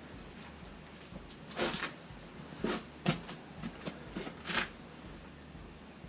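Several short knocks and scrapes in quick succession: chainsaw parts being handled and turned over on a bench.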